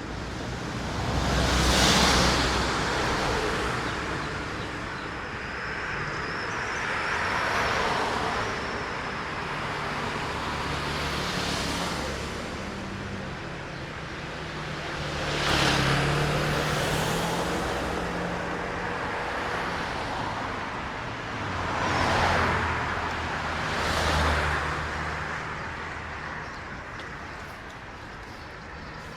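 Road traffic: about six cars pass one after another, each swelling and fading as it goes by, their tyres hissing on a wet road after rain. A low engine hum runs under one pass near the middle.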